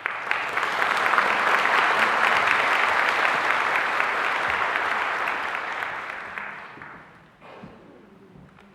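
Audience applauding: it breaks out suddenly, stays loud for about six seconds, then dies away.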